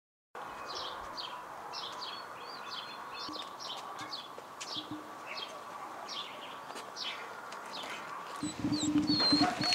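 Small birds chirping: a long series of short, high chirps, each sweeping downward, over a faint steady hum. Near the end a louder, noisier sound with a low steady hum comes in.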